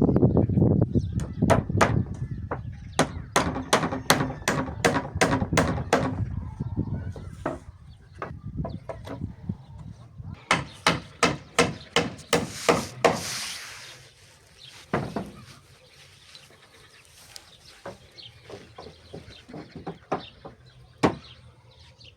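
Two runs of sharp, regular strikes, about two to three a second, like chopping or knocking on a hard surface. A low rumble fades out over the first several seconds.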